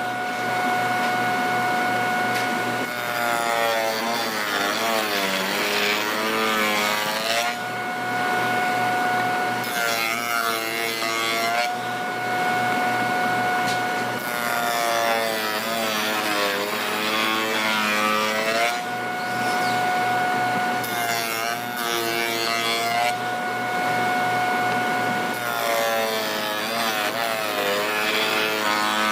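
Woodworking power machine running, its motor tone sagging and wavering each time it cuts through wood, then returning to a steady hum between cuts, over several passes.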